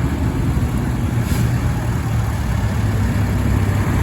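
Tractor engine running steadily at a constant low drone.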